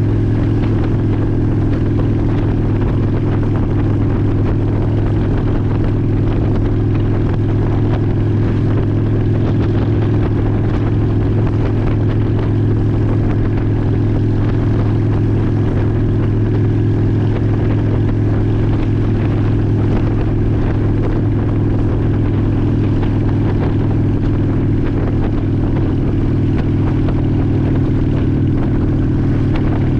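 2002 Honda Shadow ACE 750's V-twin engine running at a steady pace, a constant low drone with no change in pitch.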